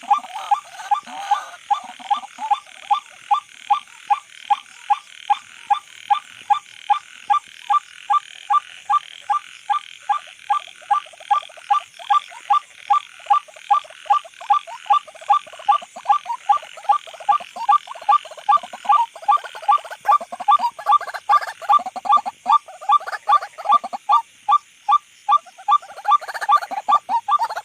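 White-breasted waterhen calling: a steady, unbroken run of short, harsh croaking notes, about two to three a second.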